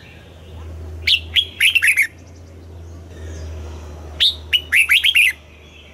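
Red-whiskered bulbul singing two short, loud phrases of quick, sharp whistled notes, about three seconds apart.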